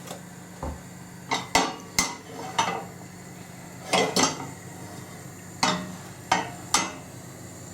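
A frying pan and kitchen utensils clattering, with about ten separate sharp knocks and clinks spread over several seconds. A low steady hum runs underneath.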